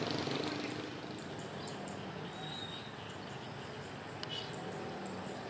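Steady outdoor background noise with a couple of faint, short high chirps, about two and a half seconds in and again just after four seconds.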